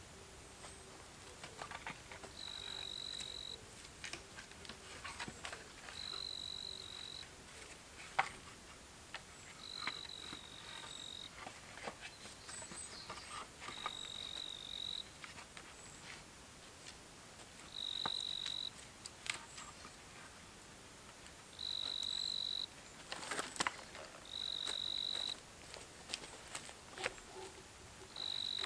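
An insect calling outdoors: a steady, high-pitched note about a second long, repeated every three to four seconds, with scattered sharp clicks and crackles between the calls.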